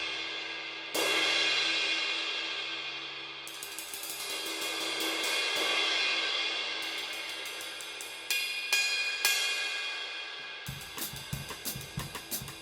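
Paiste Masters Blue Bird Mellow 20-inch ride cymbal, struck and left to ring with a long decaying wash. Quick stick taps build the wash up and let it fall away, then a few more strikes follow. Near the end it is played in a fast ride pattern with low drum hits underneath.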